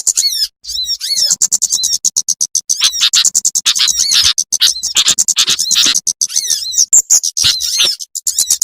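Small birds' rapid, high-pitched chirping and twittering, dense and overlapping, with brief pauses: a bird-lure recording of small songbirds such as sunbirds, played to call birds in.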